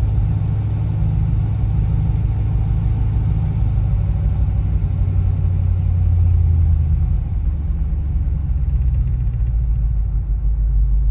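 1978 K5 Blazer's carbureted small-block V8 idling steadily just after a cold start at about −25 °C. It is running at a low idle rather than fast idle, which the owner suspects is because the choke is frozen.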